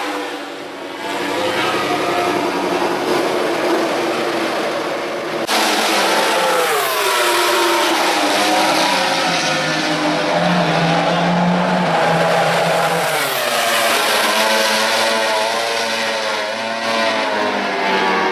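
MotoGP racing motorcycle engines running at high revs, their pitch rising and falling as the bikes accelerate and slow. The sound changes abruptly about five seconds in.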